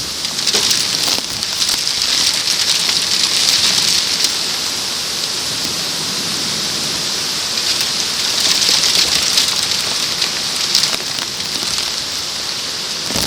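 Torrential downburst rain pelting down and drumming on the plastic sheet wrapped over the camera, a dense steady hiss that swells twice, about two seconds in and again near the two-thirds mark.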